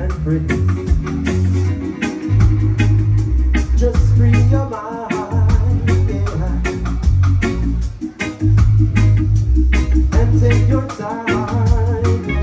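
Live reggae band playing an instrumental passage: a heavy bass line and drums on a steady groove, with a lead electric guitar bending notes over the top.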